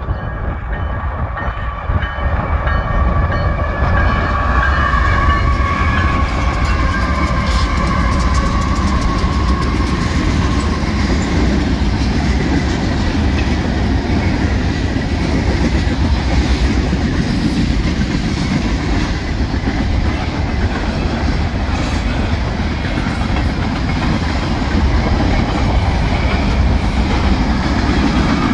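Union Pacific diesel freight train: a multi-note locomotive horn holds a long blast that drifts slightly lower and fades over roughly the first ten seconds. Then comes the steady heavy rumble and clickety-clack of the freight cars rolling past close by.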